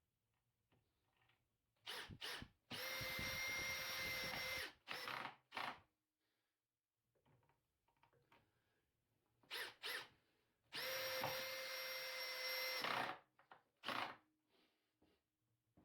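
Power drill driving screws into timber, twice. Each time it gives a few short spurts on the trigger, then a steady run of about two seconds, then a brief spurt or two to seat the screw.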